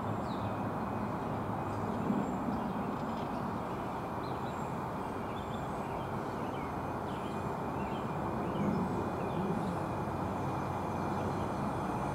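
Steady low rumble of an NJ Transit Arrow III electric multiple-unit train approaching from a distance, with scattered bird chirps.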